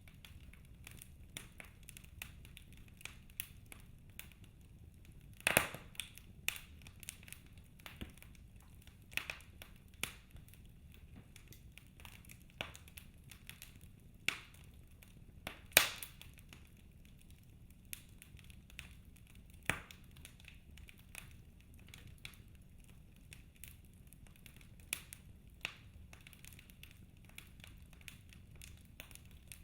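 Wood fire in a fireplace crackling: irregular sharp pops and snaps from burning logs over a faint hiss, with a few louder pops about five and sixteen seconds in.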